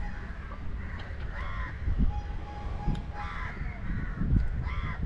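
A bird calling three times, about a second and a half apart, each call short, over a steady low rumble.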